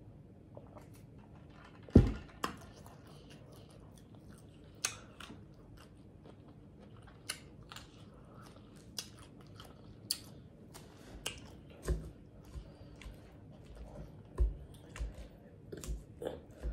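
Close-miked chewing of Caesar salad with salmon: irregular crunches and mouth smacks. There is a single louder thump about two seconds in.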